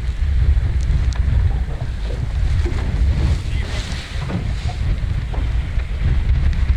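Strong wind buffeting the microphone: a heavy low rumble that rises and falls in gusts, with a fainter hiss above it.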